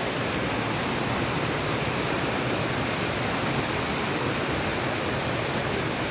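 Waterfall, the water rushing with a steady, even roar.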